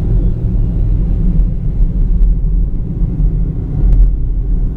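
Steady low rumble of a car driving at speed: road and engine noise, with a few faint clicks.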